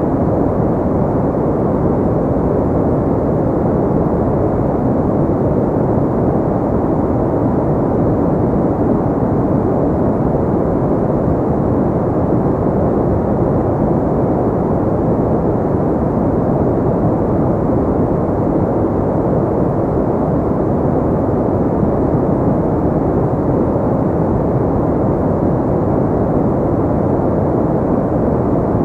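Steady white noise shaped deep and muffled, a constant rushing with no high hiss and no changes.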